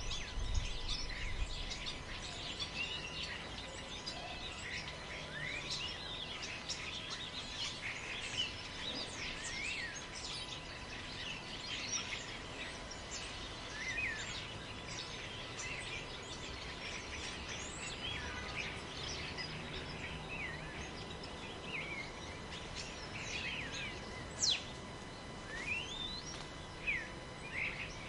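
A dense chorus of many birds chirping and whistling in a forest, short calls overlapping throughout, over a low steady rumble of wind. A brief stronger gust of low rumble comes right at the start.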